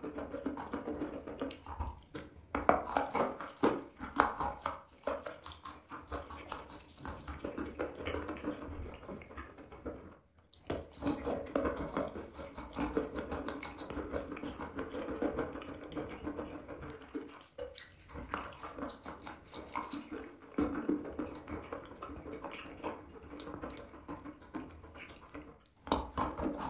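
Close-miked chewing of wet chalk: moist crunching, squelching and mouth clicks, with a couple of brief pauses.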